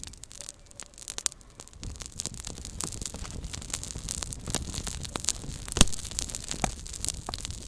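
Small campfire crackling, with many sharp pops and snaps scattered irregularly, one louder pop about six seconds in.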